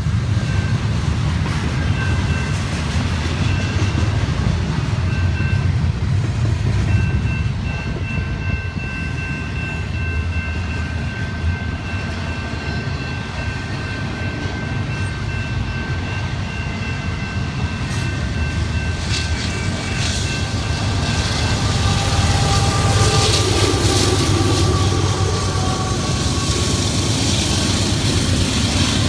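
Canadian Pacific double-stack container train passing at a level crossing: a steady heavy rumble and clatter of freight car wheels on the rails, with thin high whining tones that come and go above it.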